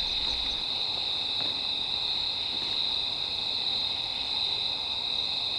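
Steady night chorus of crickets, one continuous high trill with no break.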